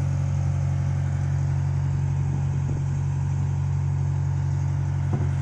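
A fishing boat's engine running steadily, a constant low drone with no change in speed.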